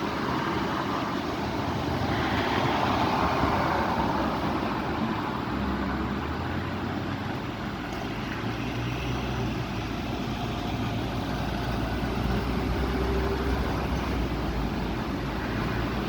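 Strong wind blowing with road traffic, a whooshing swell about two seconds in, then a steady low vehicle engine hum.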